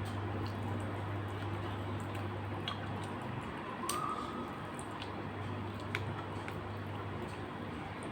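Close-up chewing and wet mouth sounds of someone eating, with a few light clicks, over a steady low hum. A brief high squeak sounds about four seconds in.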